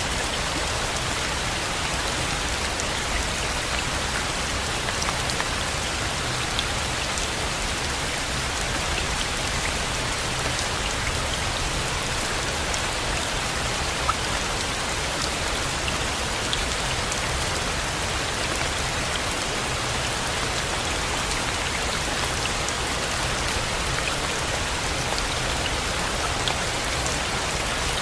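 Steady rain: an even hiss with scattered single drops ticking.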